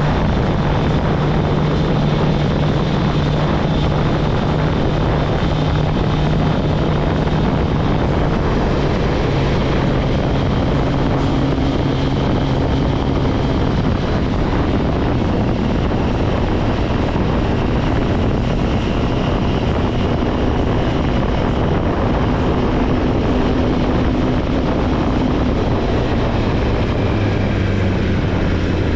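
Kawasaki ZX-10R's inline-four engine running on the move, with wind rushing over the microphone. The engine pitch holds steady for stretches, shifts a few times and drops lower near the end.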